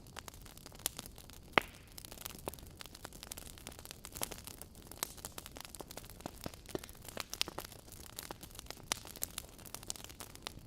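Wood fire crackling: logs in a fireplace throwing irregular sharp pops and snaps over a soft hiss, with one louder pop about a second and a half in.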